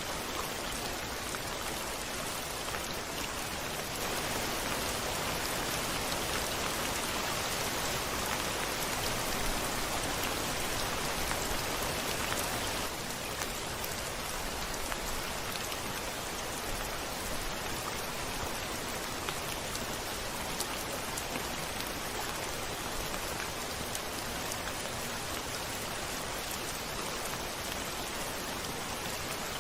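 Steady heavy rain falling on a window, a dense hiss with scattered drop ticks, swelling slightly louder for several seconds early on before settling back.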